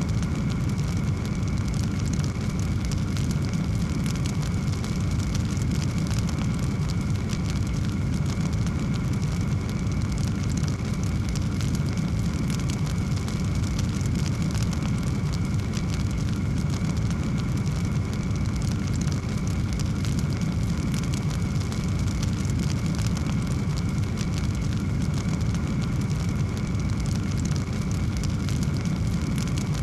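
Wood fire burning in a fireplace: a steady low rumble of flame with dense, continuous fine crackling.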